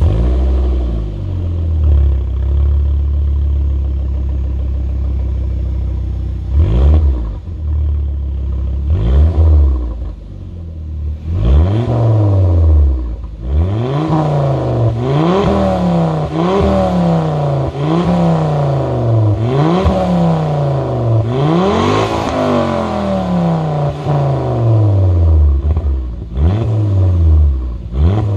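2012 Volvo C30 T5's turbocharged five-cylinder engine with a HEICO Sportiv sport exhaust, warm. It idles steadily for about six seconds, then is blipped twice. After that it is revved repeatedly: a run of quick rises and falls in pitch about every second and a half, ending in two more short blips.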